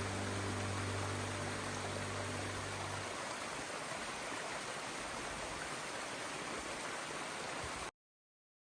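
Background music track: low sustained notes fade out in the first three seconds, leaving a steady rushing noise like running water, which cuts off abruptly near the end.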